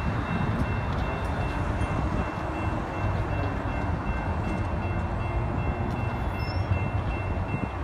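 Distant Amtrak passenger train approaching behind two GE P42DC diesel locomotives: a steady low rumble with a faint, steady high-pitched tone over it.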